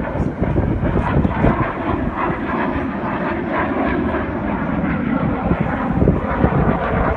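Jet aircraft engine noise: a loud, steady roar with a heavy low rumble.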